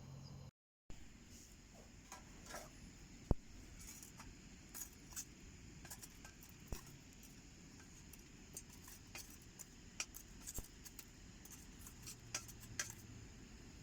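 Wood fire in a homemade wood stove crackling: irregular sharp snaps and pops over a faint hiss, one louder pop about three seconds in.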